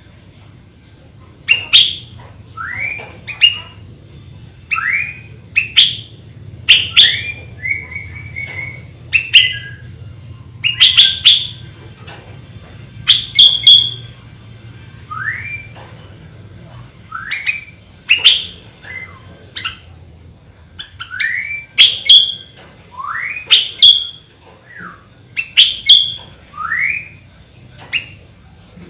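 Sooty-headed bulbul (kutilang) singing: short sharp whistled notes, each often followed by a quick rising whistle, repeated every second or two.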